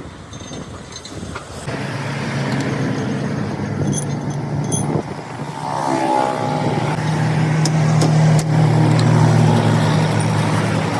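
A heavy road vehicle's engine running steadily. It grows louder about halfway through, with a short glide in pitch, as if a vehicle is drawing close or revving.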